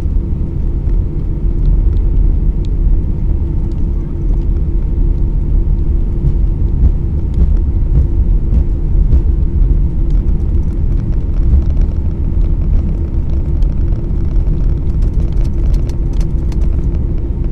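Cabin noise inside an Airbus A319 rolling on the ground after landing: a steady, loud low rumble from the wheels and engines with a constant hum, and faint cabin rattles near the end.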